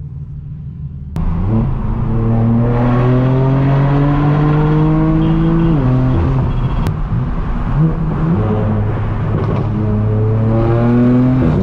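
Straight-piped BMW M4 F82's twin-turbo inline-six, with an AWE Track exhaust, under hard acceleration. A lower drone for about the first second gives way suddenly to a loud engine note that rises through a gear and drops at an upshift about halfway. It then climbs again to another shift near the end.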